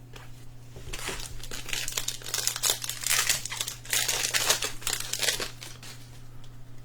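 Plastic wrapper of a trading card pack being crinkled and torn open, a dense crackling that starts about a second in and stops shortly before the end.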